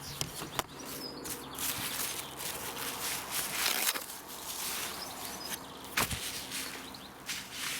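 Handling noise as the camera is set down and things are moved about: a few sharp knocks near the start and about six seconds in, and rustling in between.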